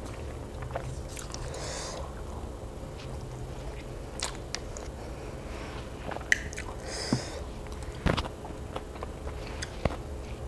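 A person chewing a mouthful of rice and grilled pork close to a clip-on microphone, with wet mouth sounds and scattered sharp clicks of chopsticks, the sharpest about eight seconds in.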